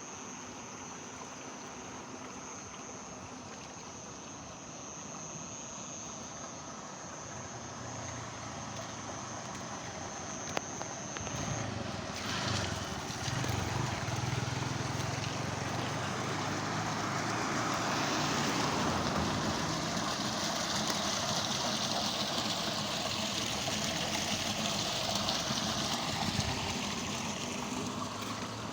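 Rain falling with water running, a steady hiss that grows heavier over the first half and then holds. A thin high insect-like whine sits over it for the first ten seconds or so.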